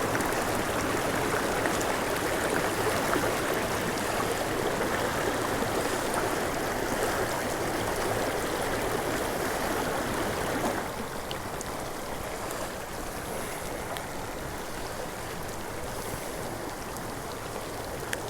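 Mountain creek water rushing steadily. About eleven seconds in it becomes noticeably quieter.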